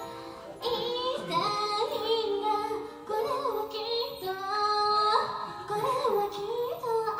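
Female idol singer singing a J-pop song live over its instrumental accompaniment.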